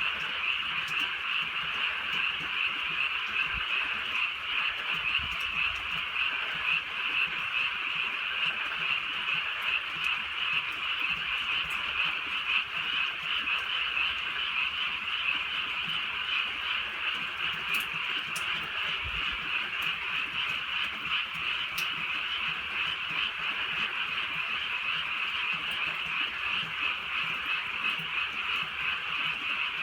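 Dense, steady chorus of many frogs calling together, with a few faint ticks.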